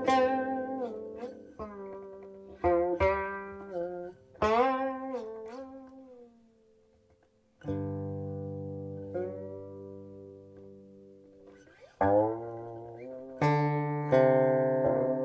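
Guqin being played: single plucked notes that ring and fade, several sliding up or down in pitch after the pluck. A short pause about halfway through is followed by a long low note, then fresh plucks near the end.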